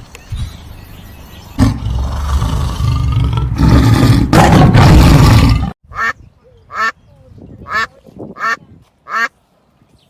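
A loud, rough noise with a heavy low end fills the first half and cuts off abruptly. It is followed by a duck quacking about five times at an even pace.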